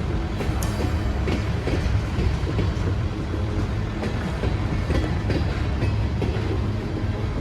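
Train running on the rails: a steady low rumble with irregular clicks of the wheels over the track.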